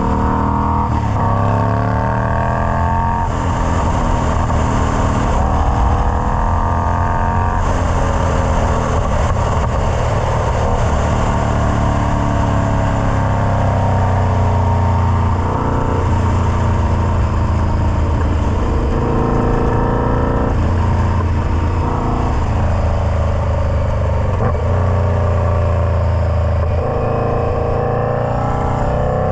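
Indian Scout Bobber V-twin running through a Freedom Performance Combat 2-into-1 exhaust, the revs climbing and dropping back again several times.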